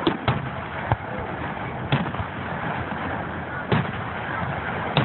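Fireworks going off in a series of sharp bangs, about six in five seconds at irregular intervals, over a steady background hiss.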